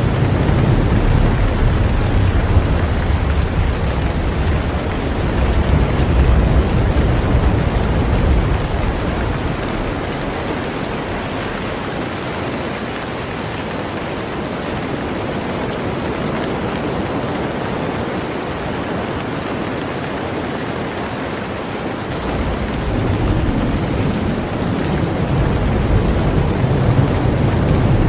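Heavy rain falling on a boat, a dense steady hiss. A deep low rumble runs under it, fades away about a third of the way in, and returns near the end.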